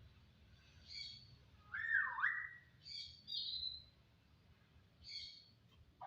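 A jalak starling whistling and chattering in short separate calls about a second apart. One is a clear whistle that drops and rises again, and the others are brief, higher chattering notes.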